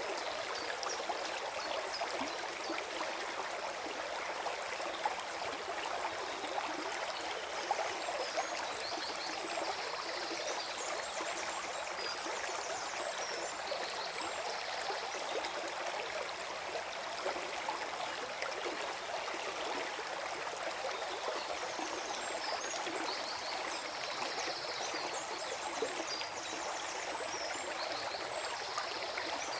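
Forest stream flowing and gurgling in a steady, even rush of water.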